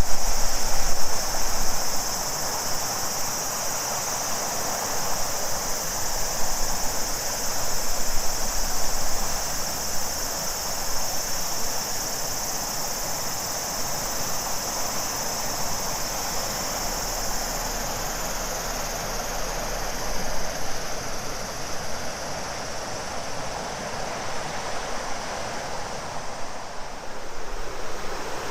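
Shimanto River flowing with a steady, even rush over a high-pitched cicada chorus. The cicada drone fades away over the last ten seconds or so, leaving the sound of the river.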